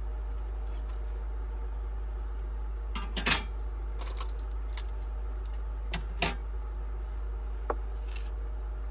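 Dishes and cutlery clinking and clattering a few times, loudest about three seconds in and again around six seconds, with a short ringing clink near the end, over a steady low hum.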